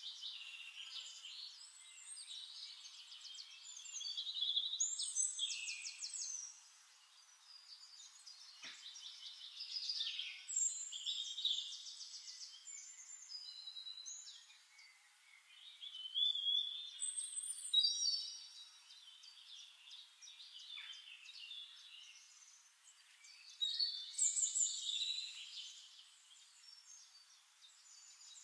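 Birds singing: varied high chirps and quick trilled phrases that come and go every few seconds.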